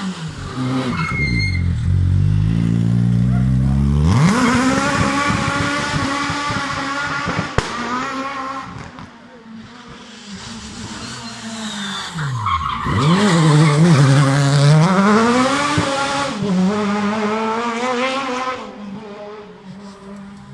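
Rally car engines at full race pace: revs fall as a car slows into a corner, then climb sharply about four seconds in as it accelerates hard and holds high revs. About thirteen seconds in, the revs drop steeply and climb again in another burst of hard acceleration.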